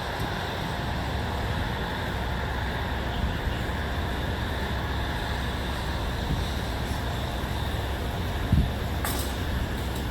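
Steady outdoor ambience: a low rumble under an even hiss, with a brief low thump about eight and a half seconds in and a short click just after.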